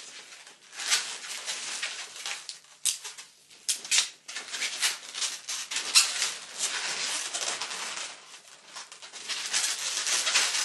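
Latex modelling balloons squeaking and rubbing as they are handled and twisted, in irregular bursts, with a sharper snap about six seconds in.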